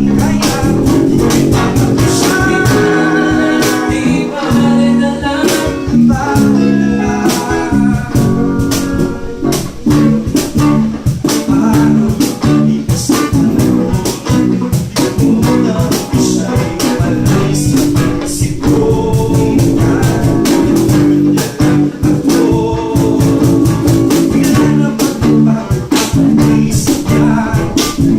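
A band playing a song in rehearsal: guitar and drums with cymbals keeping a steady beat, and a voice singing over them.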